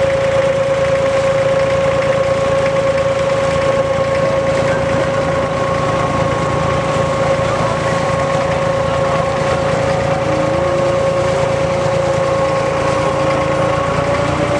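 Diesel engine of a wooden abra ferry boat running steadily: a low drone with a steady whine on top, the whine rising slightly in pitch near the end.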